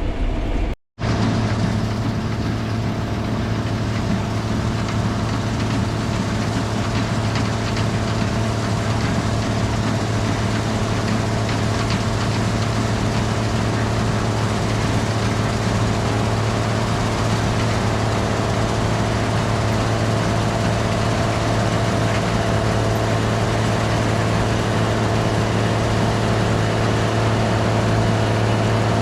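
Gleaner R72 combine running steadily, its engine and machinery a constant low drone with a steady higher hum, heard from inside the cab. The sound cuts out for a split second about a second in.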